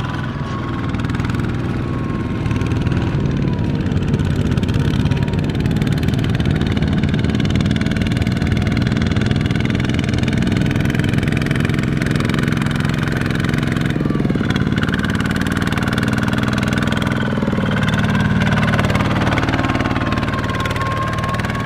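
Small Kubota single-cylinder diesel engine of a two-wheel tractor running steadily.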